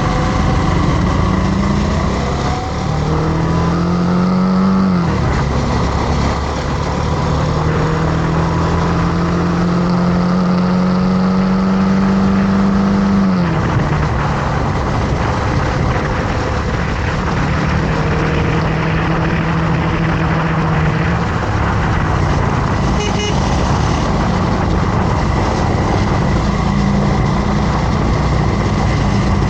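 Motorcycle engine running under way. Its note climbs steadily as the bike pulls and drops abruptly at gear changes, twice in the first half, then holds steadier.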